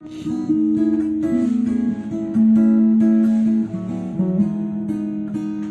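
Live band playing the instrumental intro of a song: strummed acoustic guitar chords with held melody notes, the tune changing note every second or so.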